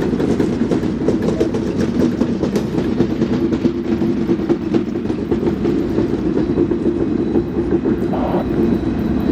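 Railroad cars rolling steadily past at close range: a continuous rumble of wheels on rail with rapid clicking and clacking over the rail joints.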